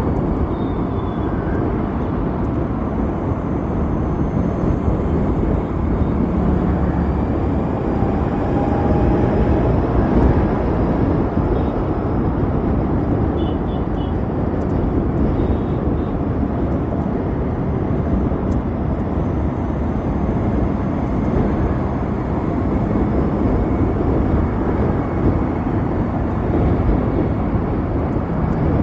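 Steady wind and road noise from riding an Ather 450X electric scooter at speed. It is a continuous low rumble with no engine note.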